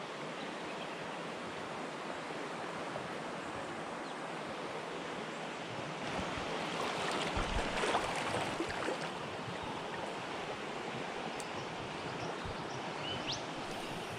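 River water running, a steady rush that swells a little for a couple of seconds around the middle. A short chirp near the end.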